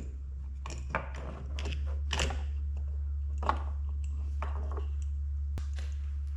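Scattered clicks, taps and scrapes of hand work on metal and plastic parts, over a steady low hum.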